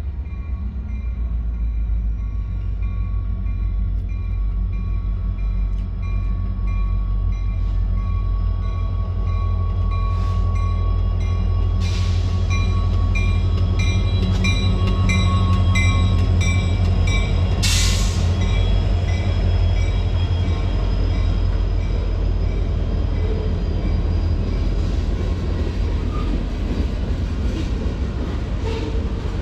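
Freight train passing with a steady, heavy diesel rumble and an even, rhythmic clicking of wheels over the rails. There is one loud sharp clank about eighteen seconds in.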